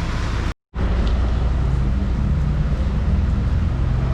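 Heavy rain falling steadily, with a low rumble under it; the sound cuts out completely for a moment about half a second in.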